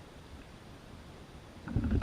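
Low rumbling handling noise with faint knocks, growing louder in the last half-second, from an angler handling a freshly caught bass in a kayak.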